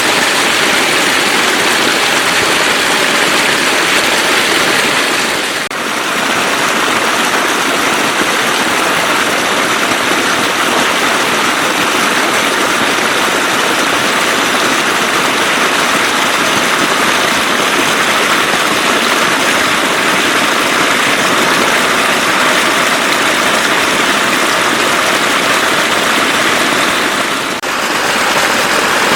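Steady rush of floodwater flowing, a continuous hiss-like roar that dips briefly twice.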